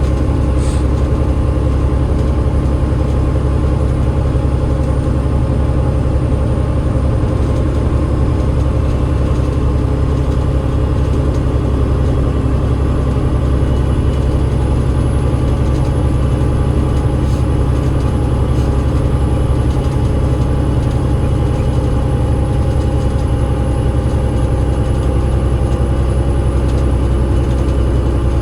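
Cummins ISL8.9 diesel engine of an Enviro500 MMC double-decker bus running at a steady, unchanging pitch. A faint high whistle comes in about halfway.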